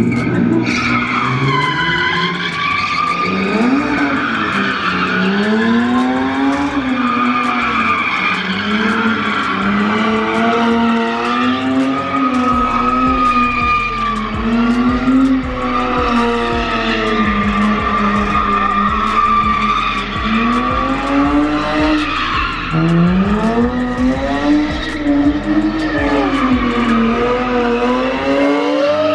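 A car spinning its tyres hard, with the tyres squealing continuously while the engine revs rise and fall in waves every couple of seconds.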